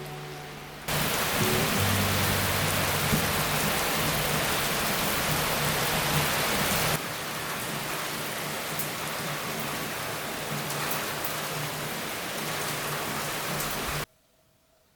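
Steady rain falling, starting abruptly about a second in, stepping down a little partway through and cutting off suddenly near the end. Soft acoustic guitar music plays underneath.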